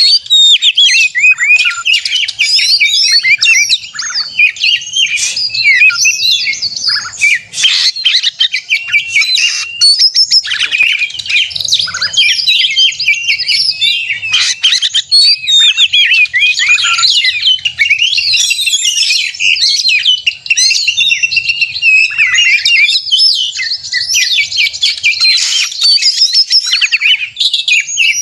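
Oriental magpie-robin singing a loud, unbroken song of quick, varied whistles, chirps and trills: the 'gacor narung' fighting-mode song used to provoke other magpie-robins into singing.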